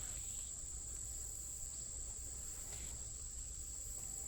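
Insects trilling in one steady, unbroken high-pitched tone, over a faint low rumble.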